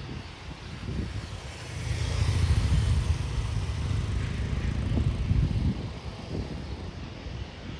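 Aircraft engine rumble, heavy in the low end, swelling about two seconds in and easing off near the end.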